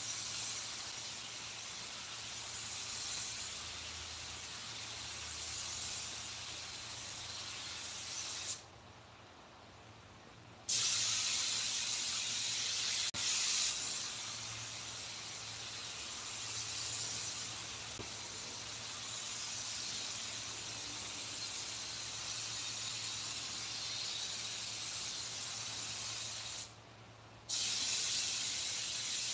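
Steady hiss of compressed air from an air gun. It cuts off suddenly twice, about nine seconds in for two seconds and again briefly near the end.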